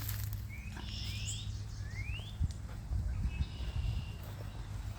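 Songbirds calling: several short rising chirps and a few higher notes, over a steady low rumble.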